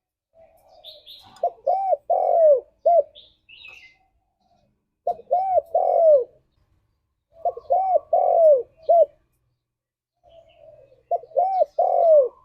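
Spotted dove (tekukur) cooing its song four times, each phrase a few short coos, one longer drawn-out coo and a short closing note, about every three seconds.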